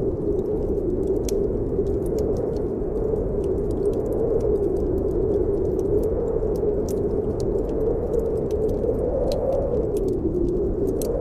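Snowstorm wind howling steadily, its pitch slowly rising and falling, with a wood fire crackling in irregular sharp snaps over it.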